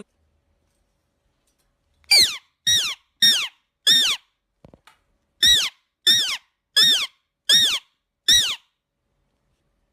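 A parrot giving a string of short, high calls, each sliding down in pitch, repeated about ten times in two runs, starting about two seconds in.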